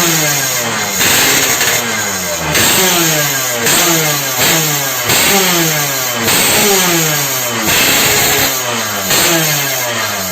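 Motorcycle engine revved in repeated throttle blips, about one a second, the pitch falling back after each.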